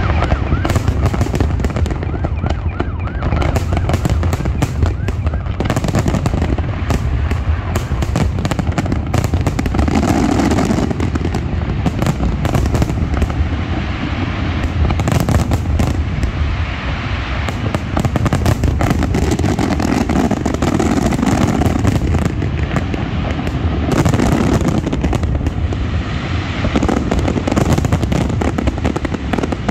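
Fireworks going off in rapid, irregular succession: dense bangs and crackling over a constant low rumble.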